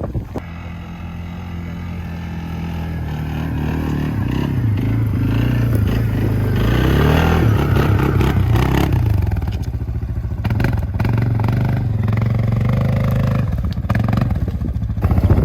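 ATV engine running under throttle on a trail, its pitch and loudness climbing over the first several seconds, wavering up and down as the throttle changes, then holding fairly steady, with some clatter from the machine.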